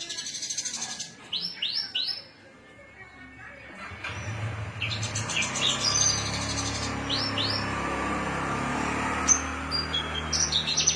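Javan bush lark (branjangan) singing: fast buzzy trills and short downslurred whistled notes. From about four seconds in, a steady low hum and rushing noise builds up under the song.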